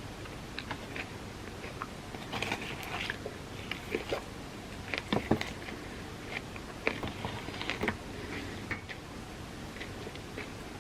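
A person eating close to the microphone: chewing and biting with short, sharp mouth clicks that come in irregular bursts.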